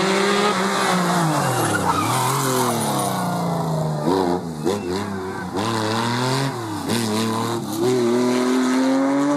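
Rally car engine passing at competition speed. Its revs fall over the first couple of seconds, rise and drop quickly several times between about four and seven seconds in as gears change, then hold high as it accelerates away near the end.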